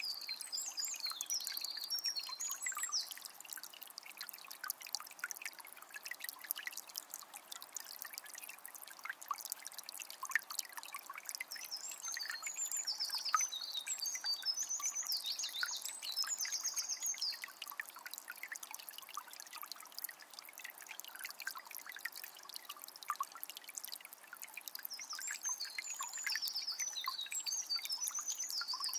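Calm forest river trickling and babbling steadily over stones. A songbird sings high, quick phrases near the start, again in the middle, and again near the end.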